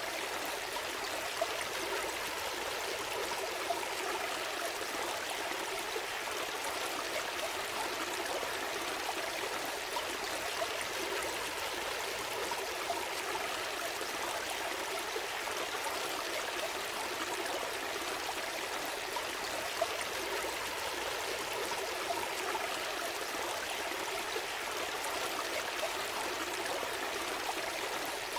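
Small stream flowing steadily over stones, a continuous babbling and trickling of water.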